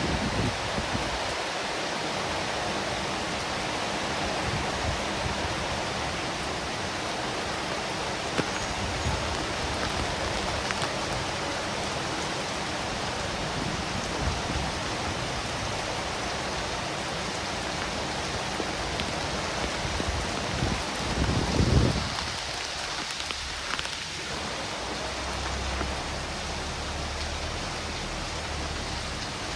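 Steady rain falling, an even hiss of drops on surfaces. About three quarters of the way through, a low rumble swells briefly and becomes the loudest sound, and near the end a low steady hum comes in under the rain.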